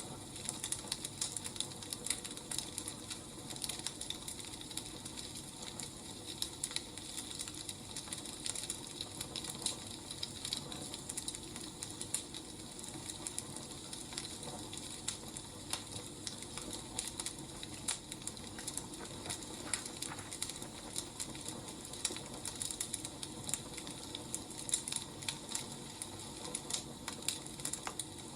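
Burning firewood crackling steadily: many small, irregular sharp pops and snaps over a faint low hiss.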